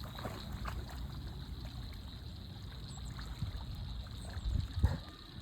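Faint trickling and splashing of water as a dog swims out to fetch, with a louder thump near the end.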